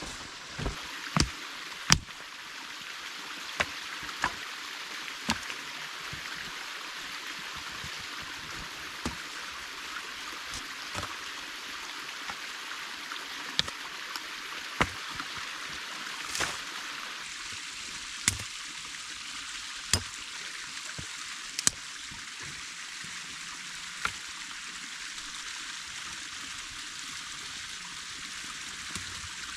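Creek water running steadily, with sharp clicks and knocks every second or two, the loudest in the first few seconds.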